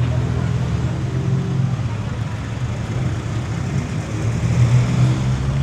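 Street traffic with a motor vehicle's engine running close by: a steady low hum that eases off midway and strengthens again toward the end.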